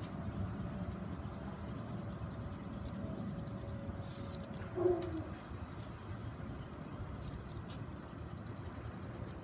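Sharpie permanent marker scratching across aluminium foil as it is drawn on, with a brief crinkle of the foil about four seconds in.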